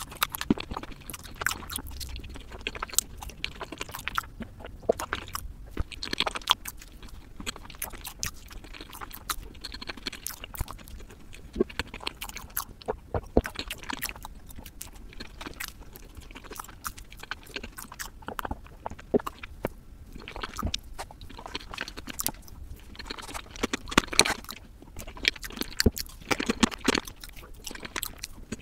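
A person chewing soft chocolate cake, with many irregular wet clicks and smacks of the mouth.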